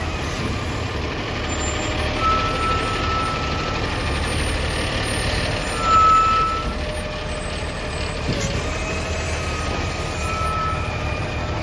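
Garbage truck's engine running steadily, with a high-pitched tone sounding several times, half a second to a second each, and a brief louder moment about halfway through.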